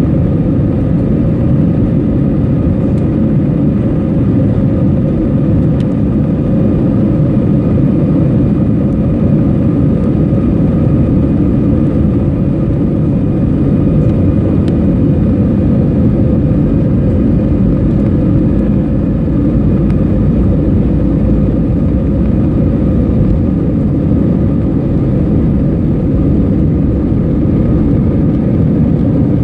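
Jet airliner engines running at a steady, unchanging level: a heavy low rumble with a faint steady whine above it.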